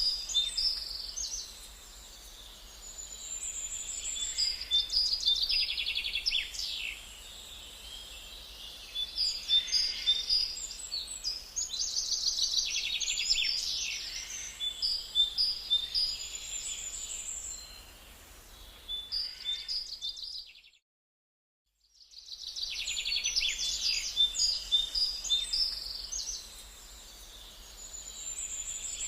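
Small birds chirping and singing in overlapping phrases of rapid high notes that swell and fade every few seconds, with a break of complete silence lasting about a second and a half, about twenty seconds in.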